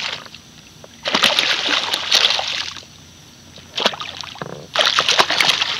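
Water splashing and sloshing in two bursts, the first about a second in and the second near the end, with sharp clicks and spatters mixed in.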